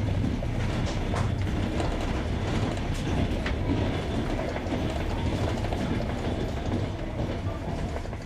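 Passenger train coach running on jointed rails: a steady rumble from wheels and carriage, with scattered clacks as the wheels cross rail joints.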